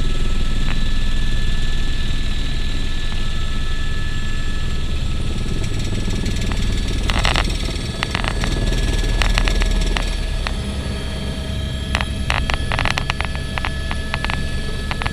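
Helicopter running with a steady low rotor rumble and a constant high turbine whine. From about halfway through, short crackling clicks cut in, most of them near the end.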